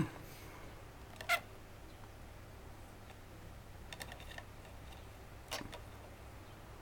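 A budgie knocking at its toy, a plastic rod inside a cardboard toilet paper roll: scattered light clicks and taps a second or two apart, with a small cluster of them around the middle.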